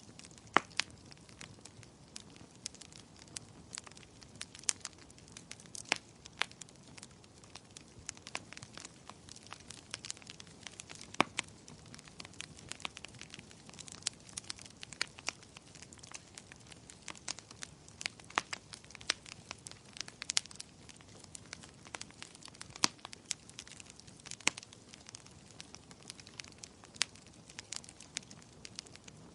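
Wood fire in a fireplace crackling, with irregular sharp pops and snaps over a faint low hiss of burning.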